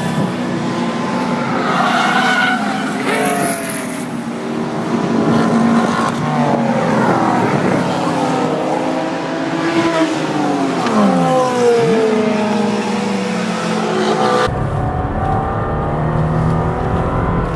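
High-revving car engines, several at once, their pitch rising and falling as the cars accelerate and pass. The sound changes abruptly about fourteen seconds in.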